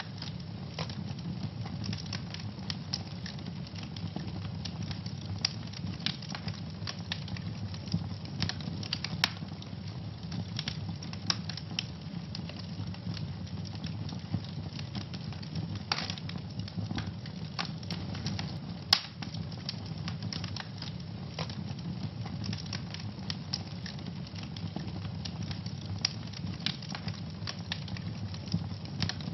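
Wood fire burning in a fireplace, with a steady low rumble and constant irregular crackling, and a few louder pops.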